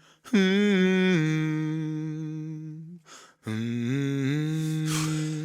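A voice humming unaccompanied, holding two long notes with a short break between them, each shifting slightly in pitch as it goes.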